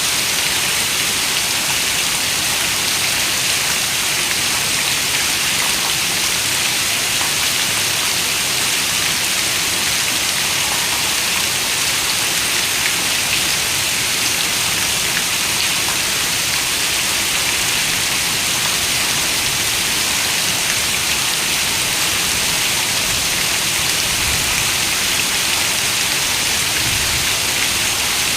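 Heavy rain falling steadily on a window, a dense, even hiss of drops that does not change.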